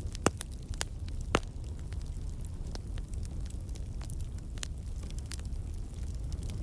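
Wood campfire crackling: a steady low rumble of the flames with scattered sharp pops from the burning logs, two loud ones in the first second and a half. The pops come from water and sap in the wood turning to steam and bursting out.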